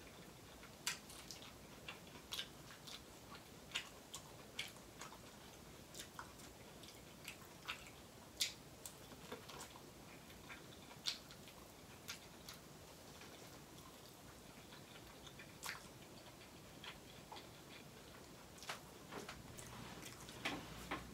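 A person biting and chewing corn on the cob close to the microphone. Irregular sharp clicks come about one or two a second and thin out near the end.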